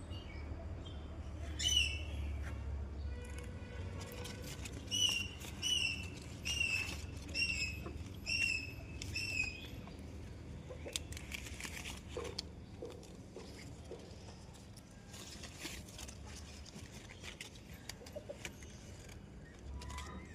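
A bird calling: one call about two seconds in, then a run of six short, clear notes, each sliding down, repeated a little under once a second. Scattered faint clicks and a steady low rumble continue after the notes stop.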